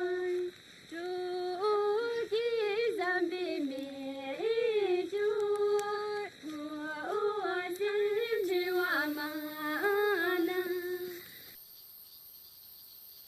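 A woman's voice singing a slow, unaccompanied melody of held notes with ornamental turns. It stops about eleven seconds in, leaving a faint hiss.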